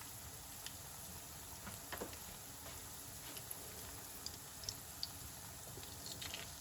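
Vegetable Manchurian balls deep-frying in oil on medium-low heat: a faint, steady sizzle with a few small pops.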